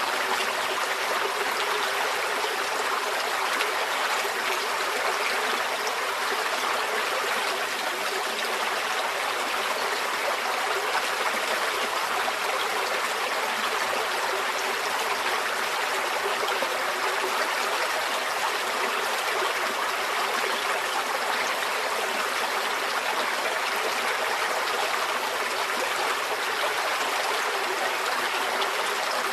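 Forest stream flowing steadily over rocks, a continuous even rush of water with a light trickle.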